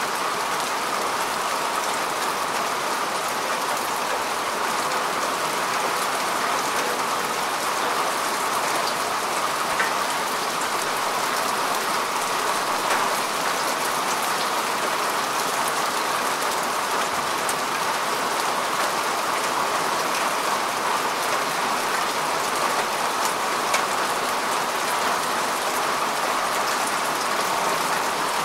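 Steady rain falling on grass and earth, a dense even patter with single drops clicking now and then.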